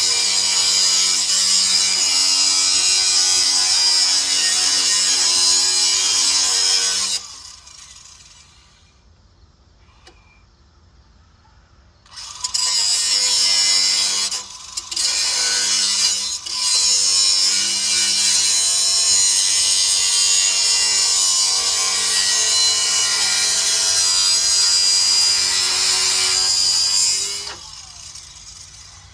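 A power tool running hard. It stops about seven seconds in, starts again about five seconds later with two brief stutters, then runs steadily until it cuts off near the end.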